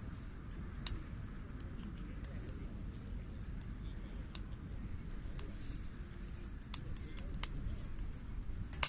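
Wood bonfire burning: a steady low rumble with scattered sharp crackles and pops, two louder pops about a second in and near the end.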